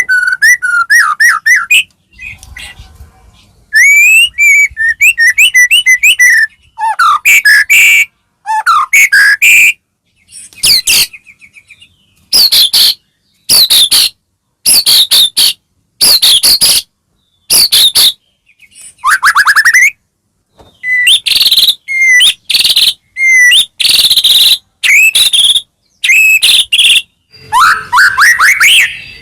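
White-rumped shama (murai batu) singing: phrases of loud whistles, rising and falling glides and fast trills, with short pauses between them.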